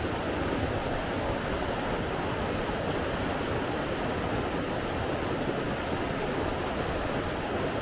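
Steady rushing water, an even noise that holds at one level without swells or breaks.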